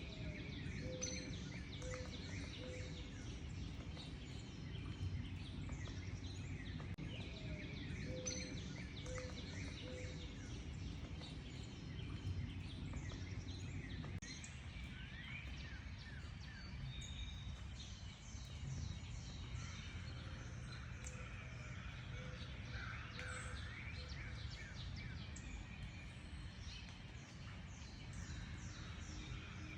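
Many wild birds calling and singing at once, a dense mix of quick high chirps and trills, with a lower note repeated three or four times in a row now and then. A steady low rumble runs underneath.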